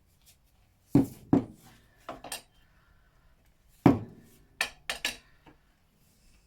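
Sharp metallic clinks of an adjustable spanner working on a scooter's rear axle castle nut. There are about nine clanks in two groups, one near the start and one past the middle.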